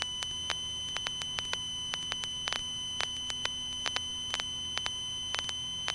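A faint, steady high-pitched electronic tone with a few fainter tones above and below it, over soft irregular clicks; no engine sound is heard.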